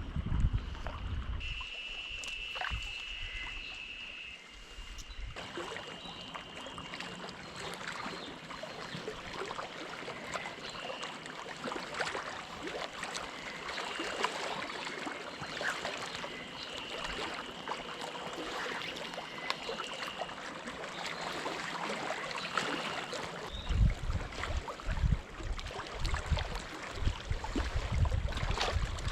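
Lake water lapping and splashing close by, with cicadas calling in high repeated phrases in the background. Gusts of wind hit the microphone near the end.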